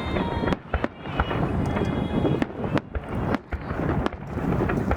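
Fireworks going off in quick succession: sharp bangs and crackling over a continuous low rumble.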